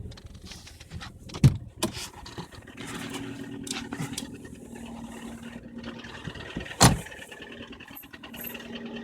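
Lada Priora's VAZ-21126 four-cylinder 16-valve engine running with a knock, heard as scattered irregular clicks over a steady hum. Two loud sharp bangs sound about a second and a half in and again near seven seconds.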